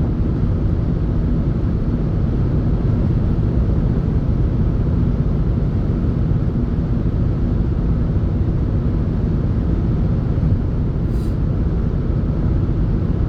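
Steady low rumble of a car driving, road and engine noise without a break. A brief faint high tick about eleven seconds in.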